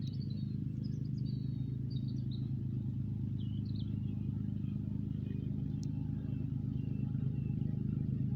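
An engine running steadily at an even idle, with small birds chirping over it, mostly in the first few seconds.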